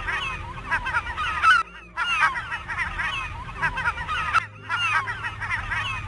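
A dense chorus of many birds calling at once from a flock or colony: short cries that rise and fall, overlapping without pause. It breaks off briefly at about two seconds and again at about four and a half seconds in.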